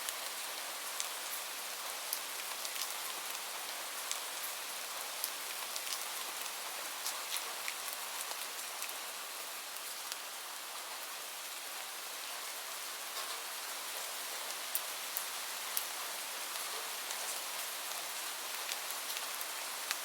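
Steady rain falling: an even hiss with many scattered ticks of single drops hitting a surface.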